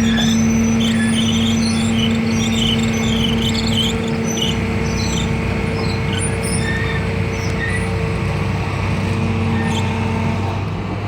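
A heavy diesel engine runs steadily, holding an even low hum. Short high chirps or squeaks come and go over the first half.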